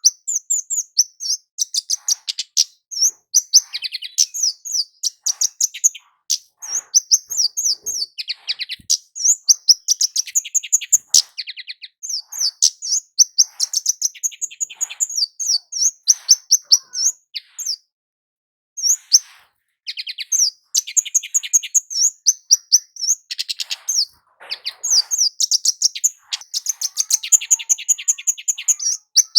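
Kemade (Javan flowerpecker, 'cit keres') singing: long runs of rapid, very high, thin chips, broken by a short pause about 18 seconds in.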